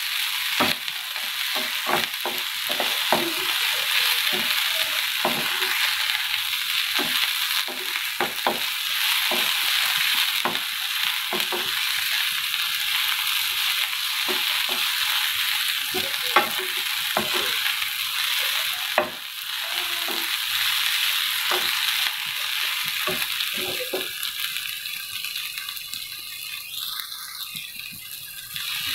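Chopped onion and green chillies sizzling in hot oil in a nonstick frying pan while a wooden spatula stirs them, scraping and knocking against the pan many times. The sizzle eases off a little in the last few seconds.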